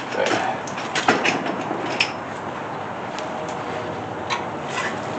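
Scattered light metal clicks and clinks of bolts and washers being handled while bolting an engine block to an engine stand, over a steady low hiss.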